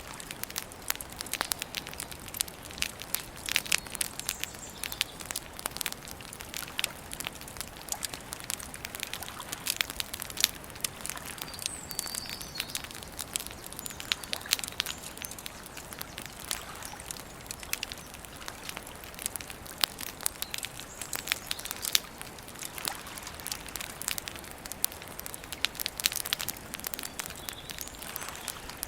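Wood campfire crackling and popping: dense, irregular sharp snaps over a soft steady hiss, with a few faint bird chirps behind it.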